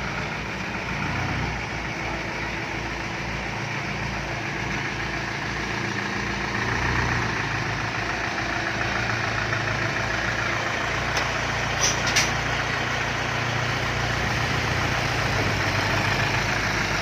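Truck engine running steadily, a little louder about six seconds in, with two short sharp clicks about twelve seconds in.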